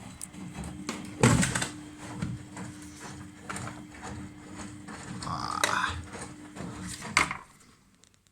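Miele Novotronic W971 washing machine running: a steady low hum with irregular clunks and knocks, the loudest about a second in. The sound drops away shortly before the end.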